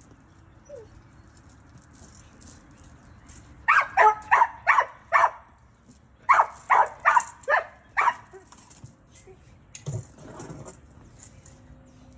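A dog barking in two quick runs of about five barks each, the first a few seconds in and the second about two seconds later.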